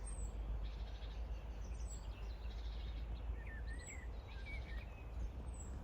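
Steady low outdoor background noise, with a few faint short bird chirps about three and a half seconds in.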